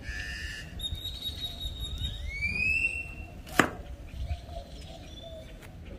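A bird's whistled calls: a short high note, a held whistle, then a rising whistle about two seconds in. One sharp knock about three and a half seconds in, over a low background rumble.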